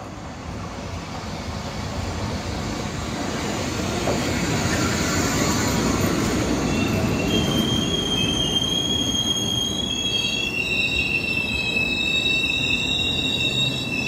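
Class 240 'Laminátka' electric locomotive and its passenger coaches rolling past, a rumble growing louder over the first few seconds. From about six and a half seconds in, the wheels squeal in several high, steady tones as the train brakes into the station.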